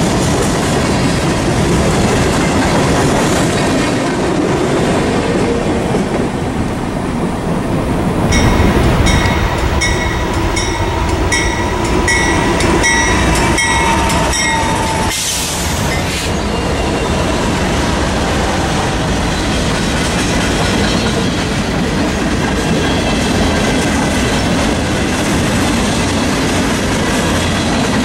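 Freight trains passing close by: railcar wheels rumbling and clattering over the rail joints. A high, pulsing metallic ringing joins in for several seconds in the middle.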